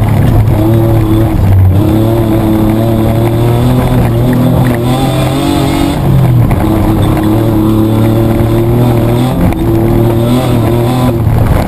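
Petrol engine of a production 4WD Mitsubishi Triton racing off-road, heard from inside the cab, working hard with the revs rising and dropping several times.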